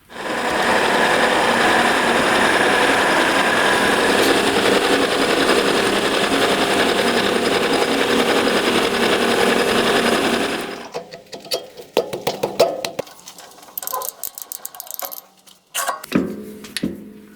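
An electric power tool in a metalworking workshop runs steadily for about ten seconds, then winds down and stops. Irregular clicks, knocks and clatter of metal parts being handled follow.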